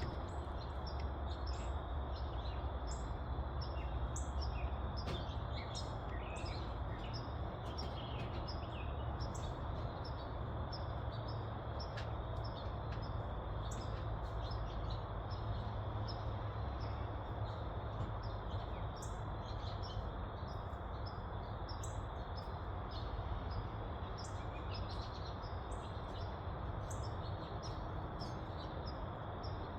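Birds chirping, many short repeated calls, over a steady low rumble of outdoor background noise.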